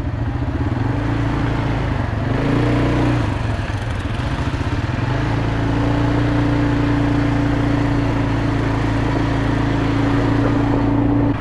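A small motor vehicle engine running steadily. Its pitch shifts about two to three seconds in, then holds level.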